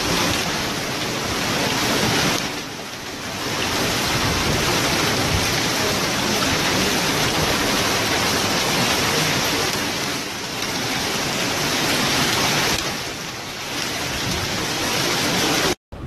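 Heavy rain pouring down, a dense, steady hiss that eases slightly twice.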